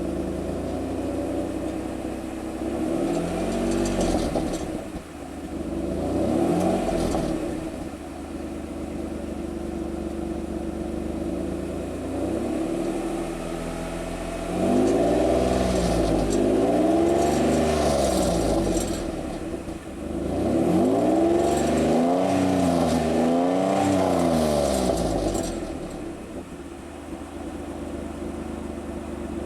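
Mitsubishi Delica Space Gear's 6G72 3.0-litre V6 petrol engine heard through its stock factory exhaust, idling and being revved: two short rev blips in the first several seconds, then longer repeated revving rising and falling from about halfway through, dropping back to idle near the end.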